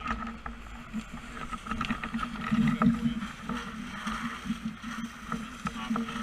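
A steady engine drone with scattered clicks and knocks over it, swelling a little about two and a half seconds in.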